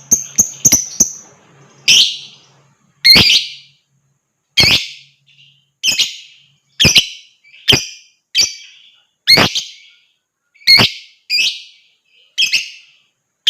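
Lovebird giving shrill, sharp calls: a quick run of short chirps in the first second, then single loud harsh calls about once a second. It is a lure call of the kind played to set other lovebirds chirping and trilling.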